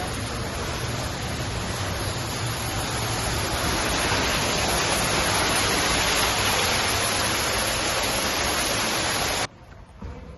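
Steady rushing of a waterfall, growing a little louder about four seconds in and cutting off suddenly near the end.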